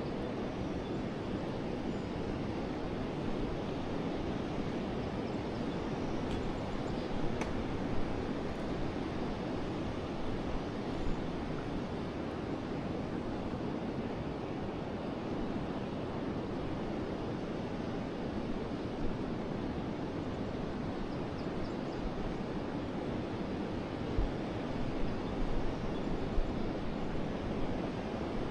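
Forest river flowing, a steady rushing of water with a few short louder splashes, mostly near the end.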